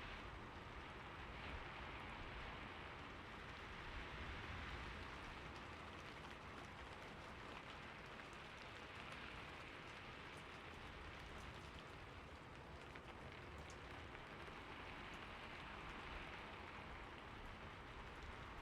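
Steady, soft rain falling, with faint scattered drop ticks.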